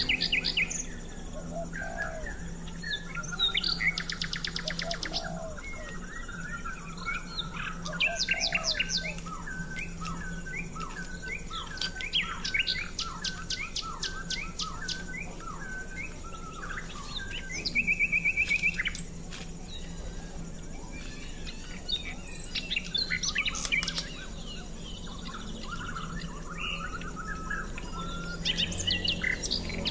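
Small birds chirping and calling, with many short repeated notes and a couple of fast trills, over a faint steady low hum.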